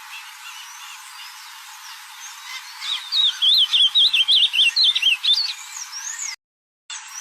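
Ultramarine grosbeak (azulão) singing: a loud, fast warbled phrase of quick rising and falling notes lasting about two and a half seconds, over fainter calls of other birds. The sound cuts out completely for about half a second near the end.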